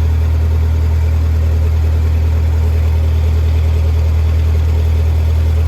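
Lincoln SA-200 engine-driven welder's gasoline engine running steadily, a loud, even low hum.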